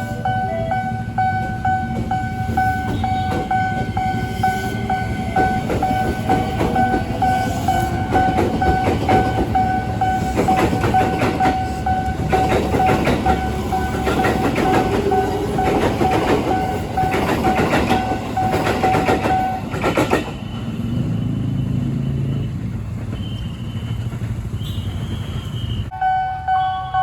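JR 205 series electric commuter train passing, its wheels clattering rhythmically over the rail joints, under steady background music tones. The music stops about two-thirds of the way in, leaving a lower rumble and a brief whine as the train runs on.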